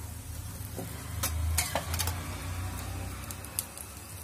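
Oil sizzling under an aloo paratha shallow-frying on a tawa, with a few sharp clicks.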